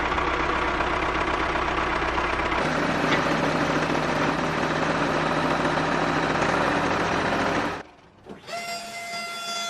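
Small motor of a homemade mini tractor running steadily. It stops abruptly about eight seconds in, and a fainter, steady higher-pitched whine follows.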